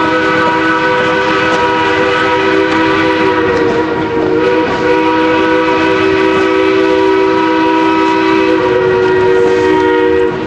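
Steam locomotive's whistle held in one long, loud chord of several notes, cutting off sharply near the end.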